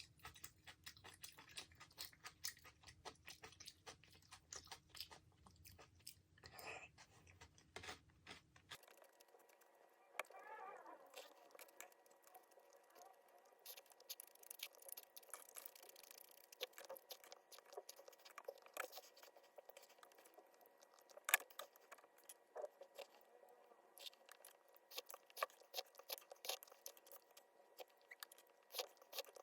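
Faint close-up eating sounds: a person chewing and crunching food, with many small irregular mouth clicks.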